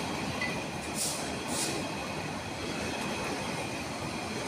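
Container freight train's loaded flat wagons rolling past at close range, a steady rumble of wheels on rails. Two short high-pitched hisses come about a second in.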